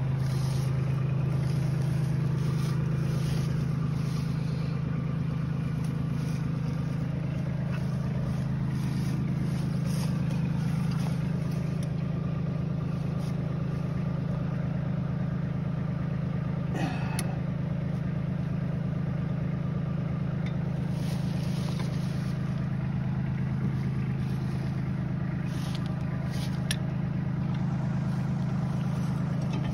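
An engine running at a steady, even idle, with a couple of faint clicks along the way.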